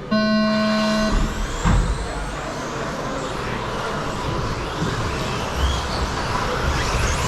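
A race-start tone beeps steadily for about a second, then a field of 1/10-scale 13.5-turn brushless electric stadium trucks launches: motors whining up and down in pitch over the rush of tyres on the track.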